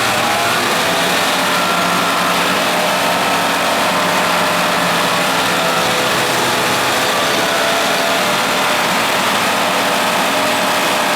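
Vohl snow blower's diesel engine running steadily under load, its engine note over a continuous rushing noise.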